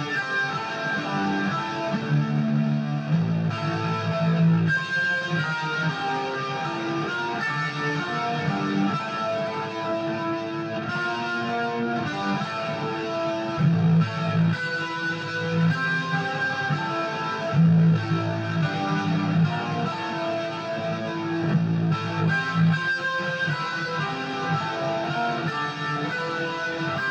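Electric guitar playing through a pitch-shift and detune effect. It plays a continuous run of held, plucked notes and chords, with heavier low notes swelling in every few seconds.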